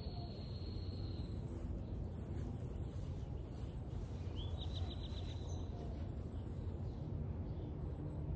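Outdoor background of a steady low rumble, with a bird calling: a held high whistle at the start and a quick run of short high notes about halfway through.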